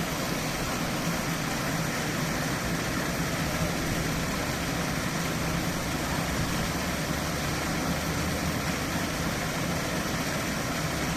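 Fountain water jets splashing and falling, a steady rushing noise with a low hum beneath it.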